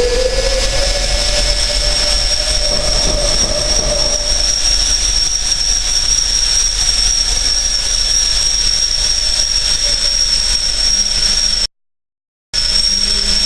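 Compressor engine spinning up after starting: a whine rising in pitch over the first couple of seconds, then running steadily with a constant high-pitched whine. The sound cuts out for under a second near the end.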